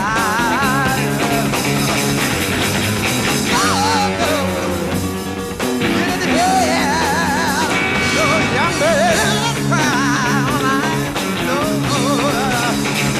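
Live rock band playing an instrumental passage, with a lead electric guitar bending notes and playing with wide, wavering vibrato over the band. The sound comes from a cassette taped off an FM radio broadcast.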